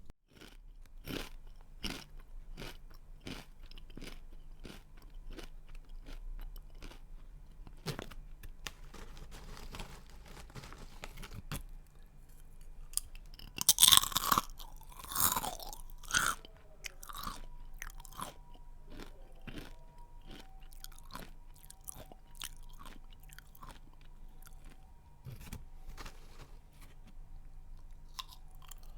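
A person chewing a crunchy snack close to the microphone: a steady run of crisp crunches, two or three a second, with a few much louder bites about halfway through.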